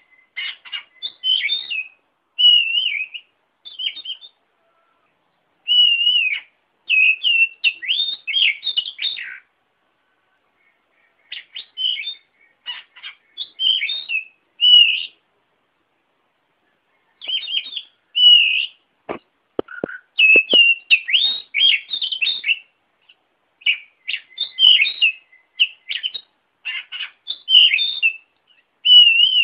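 Oriental magpie-robin singing in short, varied phrases of quick whistles and chirps, with pauses of a second or two between phrases. A few sharp clicks come about two-thirds of the way through.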